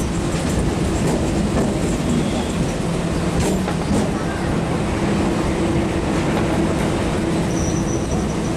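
Running noise of an electric multiple-unit commuter train heard from its open doorway: a steady rumble of wheels on rail, with a few sharp clicks over rail joints or points and a thin, high wheel squeal near the end.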